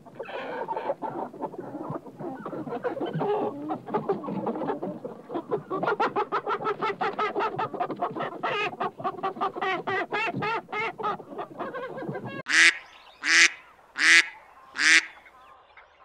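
A hen clucking in a rapid, busy run for about twelve seconds. Then four loud quacks from a female mallard, under a second apart.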